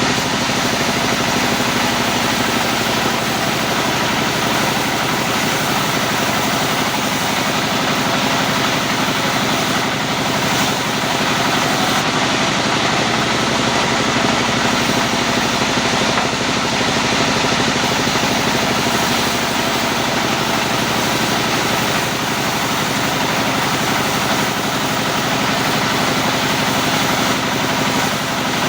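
Sawmill machinery running steadily, a continuous even mechanical drone that does not change in pitch or level.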